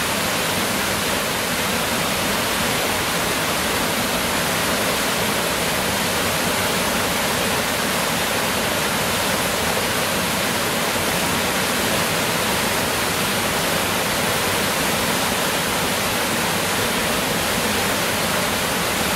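Water pouring down a waterfall cascade: a steady, even rush of falling water.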